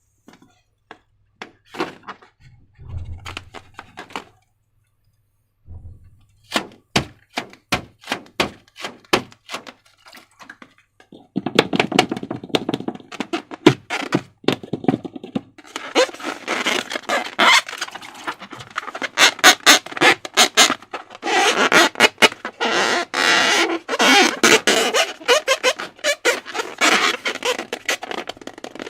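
Slime being squished and worked by hand, making sticky clicks and pops: sparse at first with a short pause, then a dense run of crackling, squelching clicks from about a third of the way in.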